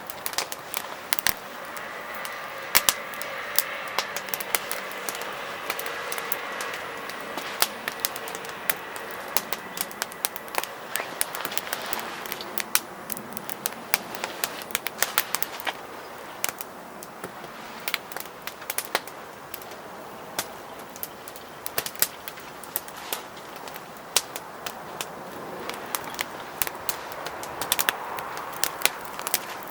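Firewood burning in a fire pit, crackling with frequent sharp irregular pops over a steady hiss.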